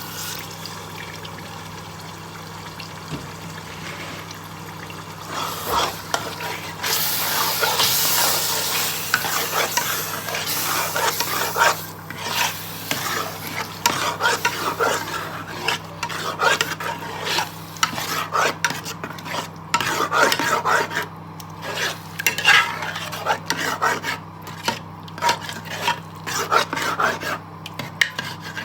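A spoon stirring and scraping in a pot of tomato-and-pepper stew frying in oil. A loud sizzle rises about seven seconds in, followed by quick, irregular scrapes and clicks of the spoon against the pot.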